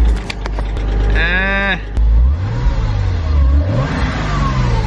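1999 Porsche Boxster's flat-six engine accelerating under way, its revs climbing and falling back several times as it pulls through the gears. About a second in comes a short, loud squeal-like tone that wavers in pitch.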